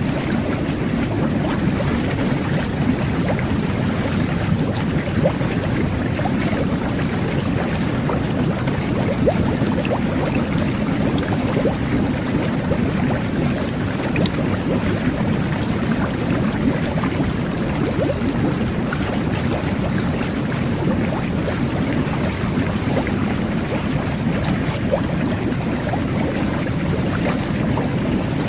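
Jet bath (jacuzzi) running: a steady churning, bubbling rush of water driven by the jets, with fine crackle of bursting bubbles, unchanging throughout.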